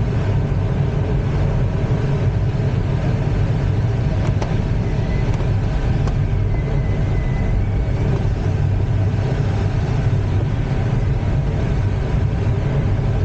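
Steady rush and low rumble of airflow in the cockpit of an ASK-21 glider in free flight. A faint high tone sounds briefly about halfway through.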